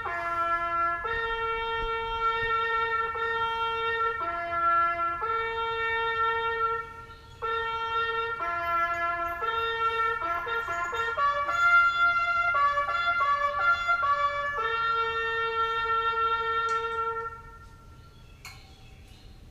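Solo brass instrument playing a slow melody of long held notes, with a quicker run of shorter notes midway, then fading out near the end.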